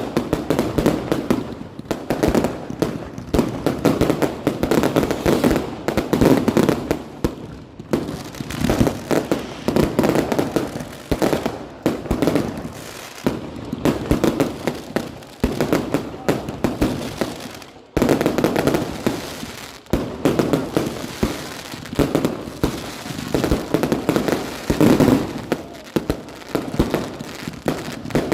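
A fireworks display with continuous, overlapping bangs and crackling bursts, going off several times a second with no let-up.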